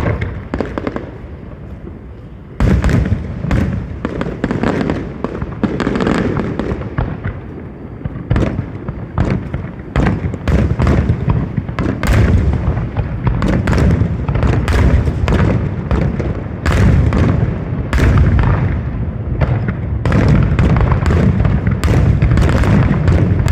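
Fireworks display: a rapid run of booming shell bursts and crackling reports, sparse at first and then near-continuous from a few seconds in, building toward a dense barrage near the end.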